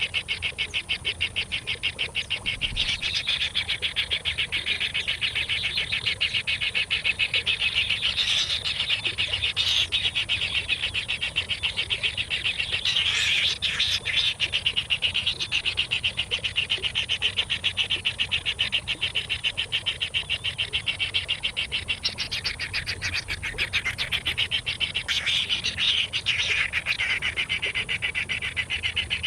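Nestlings begging for food: a continuous, rapid stream of high chirps, swelling in a few louder flurries.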